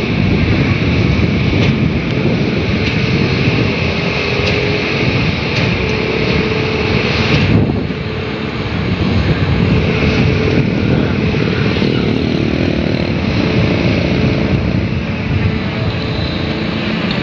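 Long-arm excavator's diesel engine running steadily, with a held tone over a loud low rumble and a brief dip in level about eight seconds in.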